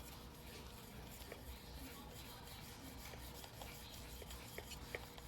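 Faint rubbing of a yanagiba knife blade being hand-sharpened on a wet whetstone, with a few light clicks near the end.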